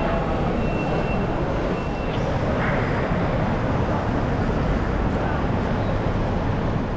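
Steady rumble and hiss of railway noise from a high-speed train, with faint voices in the background and a thin high tone for the first two seconds.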